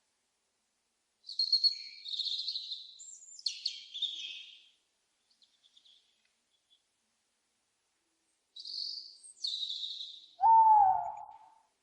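Owls calling: two spells of harsh, high-pitched screeching, the first about a second in and the second near nine seconds. Near the end comes a louder, lower hoot-like call.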